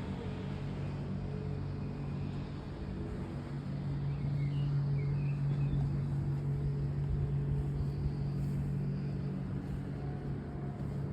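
Motorboat engine running steadily, a low even drone, with a few faint high chirps about four to five seconds in.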